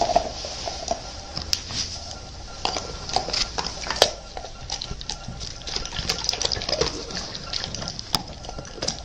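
Dogs licking and chewing at a treat: irregular wet smacks and clicks.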